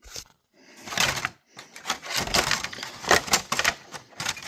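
Rapid clicks and rattling of hard parts being handled on a Losi 8ight RC car as a part is set back on top and its clips are pushed back in.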